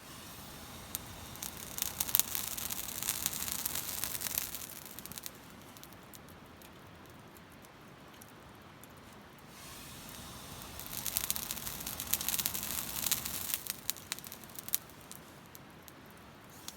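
Glowing Iwate cut charcoal (kiri-zumi) crackling and popping as breath is blown onto it, making it throw sparks. There are two blows of about five seconds each, a hiss of air full of sharp pops, with a faint lull between them.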